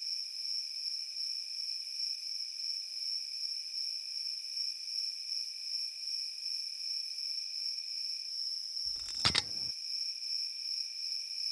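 Insects giving a steady, high-pitched chirring drone outdoors. A single sharp click comes about nine seconds in.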